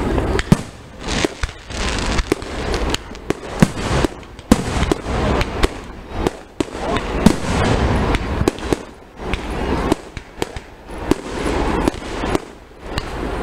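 Aerial fireworks display heard from close by: many sharp bangs at irregular intervals, with crackling and a rumbling wash between them.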